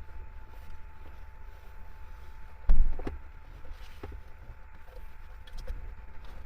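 Strong wind rumbling against the microphone, with one loud low thump a little under three seconds in and a few light knocks after it.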